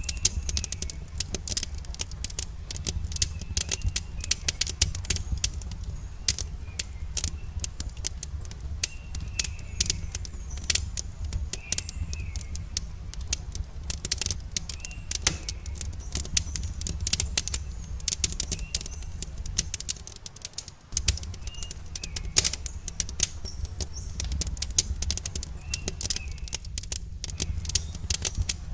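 Wood fire crackling, with a rapid scatter of sharp pops and snaps over a steady low rumble. Small birds chirp in short calls every second or two.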